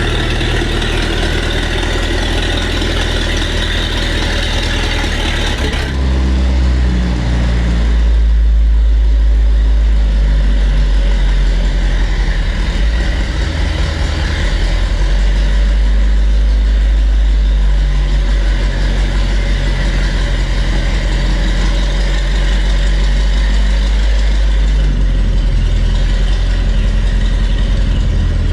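Alvis Saracen armoured car's Rolls-Royce B80 straight-eight petrol engine running, low and steady, its sound changing and getting louder about six to eight seconds in. It runs poorly, which the crew put down to a carburettor needing cleaning rather than the ignition points.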